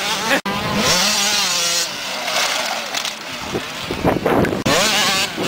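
Motocross motorcycle engines revving hard, their buzzing pitch rising and falling as the bikes accelerate and shift, with harsh wind-and-engine noise over it. The sound breaks off abruptly about half a second in and again near the end.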